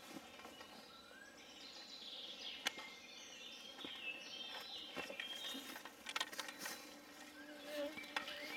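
Faint outdoor ambience with birds chirping, and a few sharp clicks.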